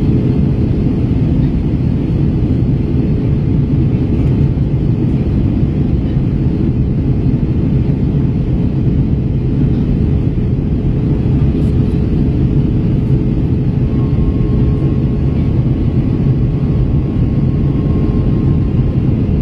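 Airbus A321 airliner cabin noise in descent: a steady, loud drone of engines and airflow with a low hum, unchanging throughout.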